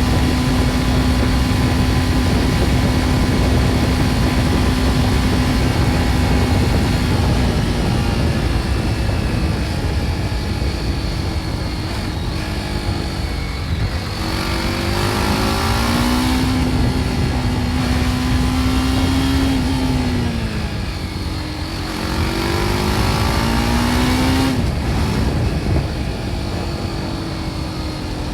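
BMW G310 R's single-cylinder engine through its stock exhaust, at first running at a steady speed. From about eight seconds in, the engine speed drops and climbs again several times as the bike slows and accelerates.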